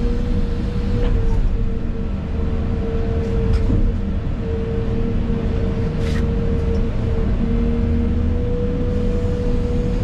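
Excavator engine and hydraulics heard from inside the cab: a steady low rumble with a constant whine, and a few knocks as the machine works.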